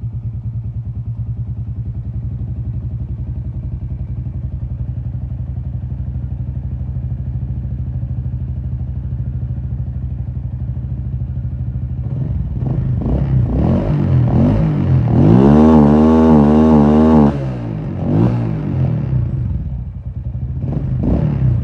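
Motorcycle engine idling steadily, then revved in a series of throttle blips from about twelve seconds in. A high rev is held for about two seconds with a wavering pitch and drops back, then comes a few more blips near the end.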